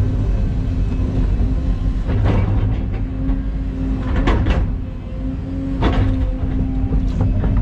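Excavator's diesel engine running steadily with a low hum, with a few sharp metallic clanks and knocks about two, four and six seconds in.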